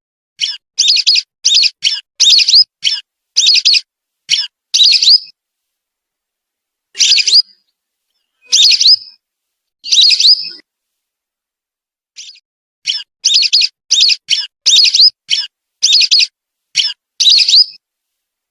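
Whistling duck (belibis) calls: short, high whistles given in a quick run of about ten, then three single calls spaced a second and a half apart, then another quick run.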